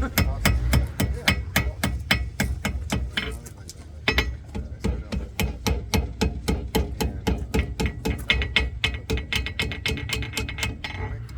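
Blacksmith's hand hammer striking hot metal on an anvil in a fast, even rhythm of about four blows a second, with a short pause about three and a half seconds in, as a hummingbird is forged.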